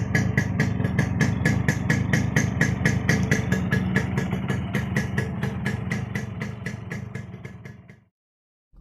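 Yamaha RX-S two-stroke single-cylinder motorcycle engine idling, with a regular ticking clatter about five or six times a second over a steady low rumble. It fades near the end and cuts off.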